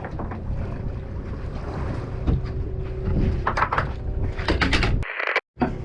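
Boat engine running low and steady with wind on the microphone. A run of sharp clicks and knocks comes in the second half, then the sound cuts out briefly near the end.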